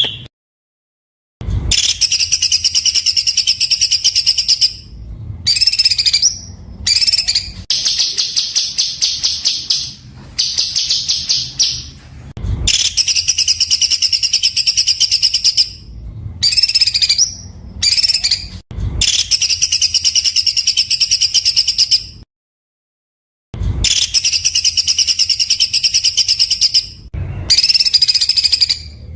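Songbird song for masteran: repeated bursts of harsh, tightly packed rapid-fire trills ('tembakan'), each lasting one to a few seconds, broken by two brief dead-silent gaps.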